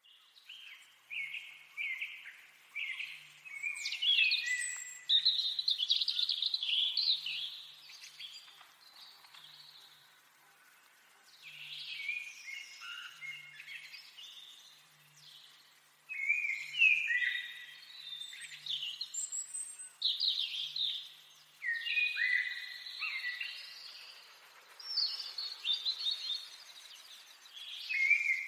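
Songbirds singing: bursts of short repeated chirps and quick trills, loud in stretches and briefly fainter about a third of the way in.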